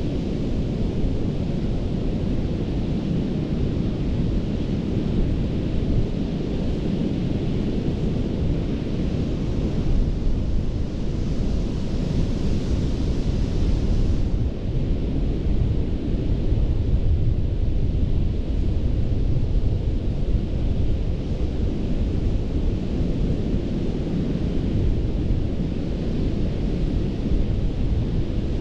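Gulf of Mexico surf on a sandy beach: a steady low rumble of breaking waves, with wind buffeting the microphone. About halfway through, a wave's wash hisses brighter for a few seconds, then drops off suddenly.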